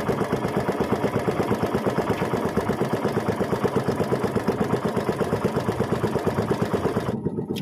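Small boat engine running steadily with an even, rapid throb; its upper hiss falls away near the end.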